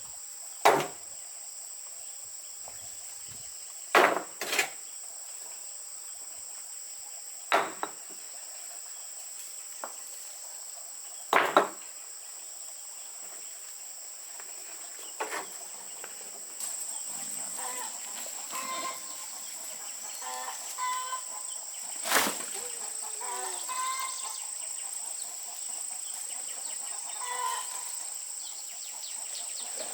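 A steady high insect drone runs throughout. Single sharp knocks come every few seconds in the first half and once more near the two-thirds mark. Chickens cluck through the second half.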